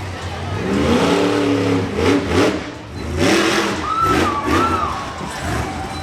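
Monster truck engine revving hard and dropping back over and over, about one blip of the throttle a second, with a higher whine rising and falling partway through.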